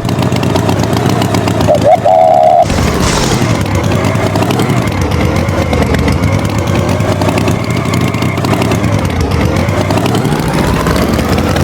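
A loud held tone for about the first two and a half seconds, then a vehicle engine running, its pitch sliding down and climbing back up.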